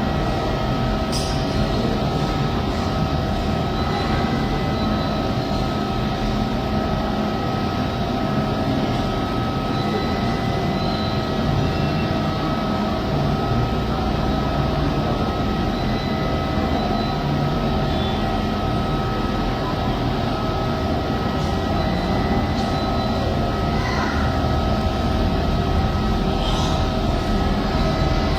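Steady, even rumble of a running vehicle with a constant hum of several steady tones over it.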